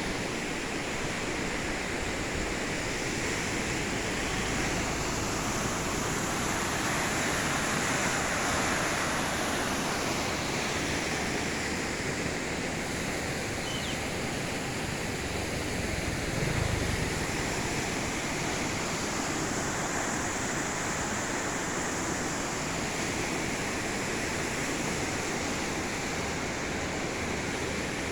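Heavy rain pouring down, a steady, even hiss. A brief low rumble rises and fades about two-thirds of the way through.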